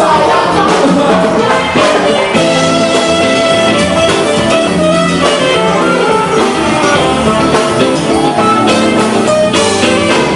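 Live band music: guitar and drum kit playing a steady rock-style passage, with no clear vocal line.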